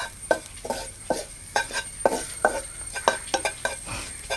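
A spoon stirring an onion masala in a frying pan, knocking and scraping against the pan about three times a second with short ringing clinks, over a low sizzle.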